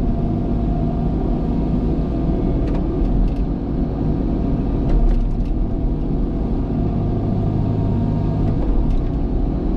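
Diesel engine of heavy earthmoving equipment running steadily at work, with a deep rumble and a few short clanks about three, five and nine seconds in.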